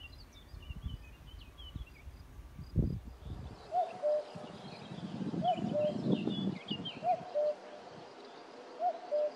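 Birds chirping over a low rumbling noise. About three and a half seconds in, a bird starts a repeated two-note call, higher then lower, four times at about a second and a half apart, with smaller birds twittering behind it.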